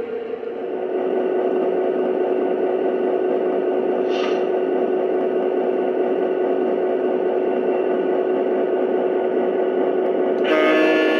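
Lionel Detroit Edison SW8 model diesel switcher running on the track: a steady whir of its motor and wheels with the onboard diesel engine sound. Near the end its electronic horn starts to blow.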